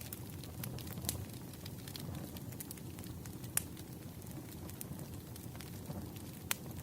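Burning firewood crackling: a steady low rumble of the fire with scattered sharp pops, the loudest about three and a half seconds in and again near the end.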